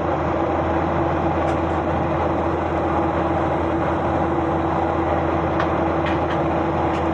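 Steady engine drone and rushing air noise inside an airliner cabin, with a constant low hum and a steady tone, and a few faint ticks.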